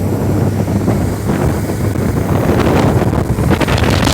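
Motorboat engine running with a steady drone while underway, wind buffeting the microphone over the rush of water.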